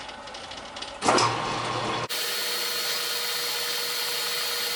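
Metal lathe starting up about a second in, then running steadily: a constant hiss with a steady high whine from the spindle and drive.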